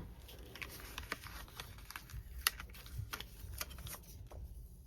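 Scattered light clicks, taps and rustles of cardstock and paper being handled and set down on a craft table.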